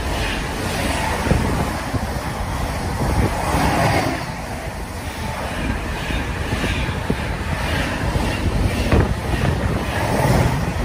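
Container freight train passing close at speed: a continuous rumble and clatter of the wagons' wheels on the rails, with irregular sharp clicks among it.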